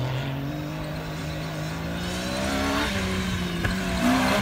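Off-road rally 4x4's engine pulling hard across a dirt field, its pitch rising steadily for about three seconds and then holding.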